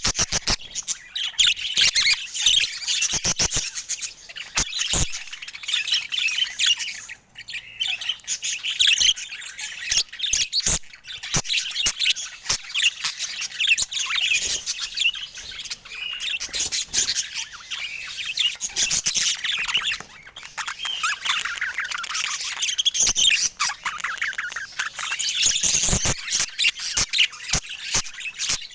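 Budgerigars chirping and chattering continuously in quick, high-pitched twitters, with frequent sharp clicks among them.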